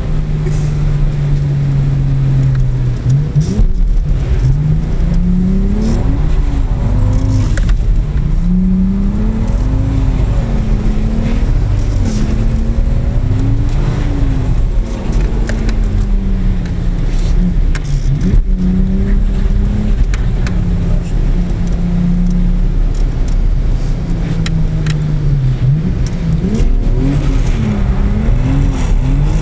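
Car engine heard from inside the cabin while the car is drifted on a wet track: held steady for the first few seconds, then revving up and down again and again, steady for a while past the middle, and swinging again near the end, over a constant low road rumble.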